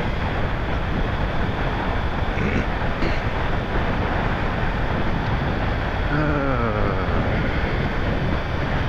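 Wind rushing over a helmet microphone while riding a Kawasaki Ninja 300 motorcycle, its parallel-twin engine running underneath at a steady level. About six seconds in, a pitched engine note briefly bends up and down.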